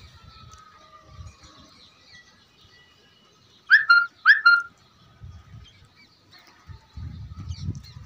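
A bird calls loudly twice, two short pitched calls about half a second apart near the middle. A low rumble follows near the end.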